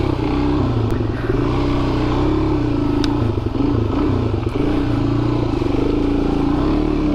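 Motorcycle engine running steadily under light load on a dirt trail, its pitch wavering slightly with the throttle. A few faint clicks are heard about a second, three seconds and four and a half seconds in.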